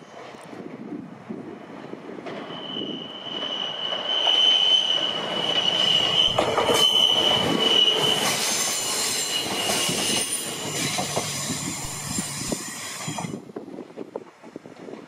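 Fujikyu 1000 series electric train passing close on a curve, its wheels squealing against the rails over the rumble of the running gear. A steady high squeal as it comes round the bend turns into several higher squeals while the cars go by, with a few wheel clacks. The sound cuts off suddenly near the end, leaving a fainter train sound.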